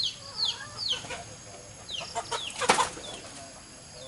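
Chicks peeping: a run of short, high cheeps, each falling in pitch, about two a second. About two-thirds of the way in there is a brief, louder rustle, like wings flapping.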